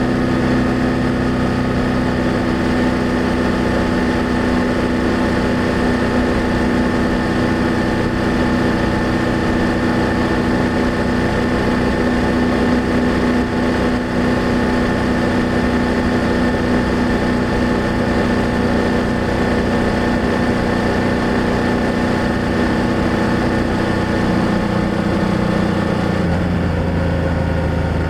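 BMW F800GS motorcycle's parallel-twin engine running at a steady pace. About three seconds before the end, the engine note drops to a lower pitch.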